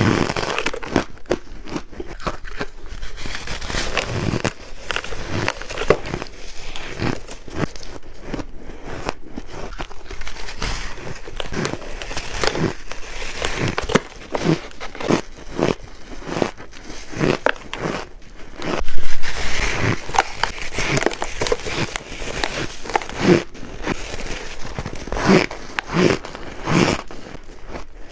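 Close-miked bites into hard chunks of freezer frost ice, each a crisp crunch, coming roughly once a second, with the loudest crunch about two-thirds of the way through.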